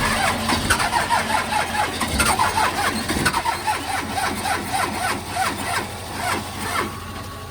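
Cold 12-valve Cummins diesel cranking on its starter in an even, rhythmic beat, struggling to catch in freezing weather.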